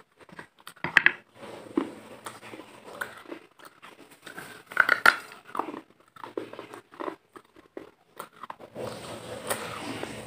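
Close-miked eating: biting and chewing with irregular crunches and wet mouth clicks, a small microphone held right at the mouth. The loudest crunches come about a second in and again about five seconds in.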